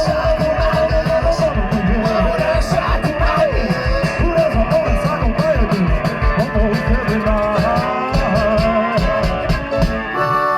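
Live rock and roll band playing an instrumental break: drums driving a fast, even beat under guitar, with a wailing lead line that bends up and down in pitch. The band drops back briefly near the end.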